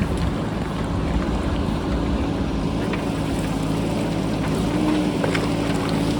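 JCB backhoe loader's diesel engine running steadily, with wind noise over it and a few faint clicks of rock clattering.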